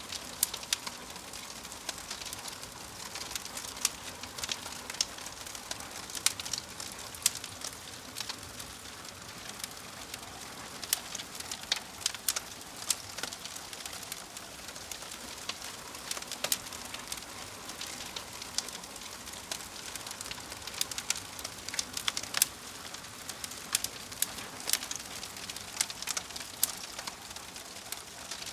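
Wood logs burning in a fireplace: a steady low hiss with frequent sharp, irregular crackles and pops.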